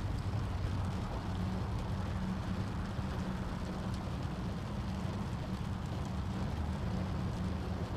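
Steady, low rumbling wind ambience with a soft hiss above it, unchanging throughout.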